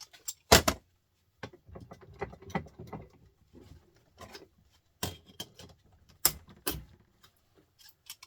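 Metal knocks and clanks with scraping and small rattles as a small printer motor is worked apart by hand. The loudest knock comes about half a second in, with further knocks near five and six and a half seconds and one at the very end.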